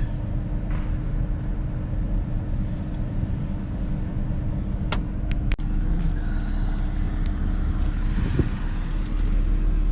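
Car driving slowly, its engine and road noise heard from inside the cabin as a steady low rumble, with three sharp clicks about halfway through.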